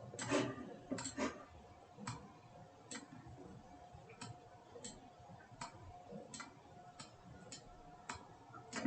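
Computer mouse clicking: about a dozen short, sharp clicks at irregular intervals, roughly one a second, some in quick pairs.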